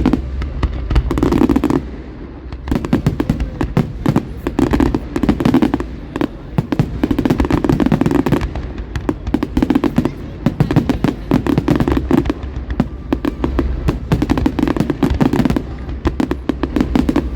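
Fireworks display going off: a dense, continuous run of cracks and bangs, heaviest in clusters about once a second.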